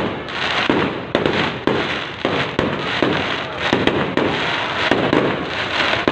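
Fireworks going off in a continuous barrage: a string of sharp bangs, about one or two a second, over steady crackling.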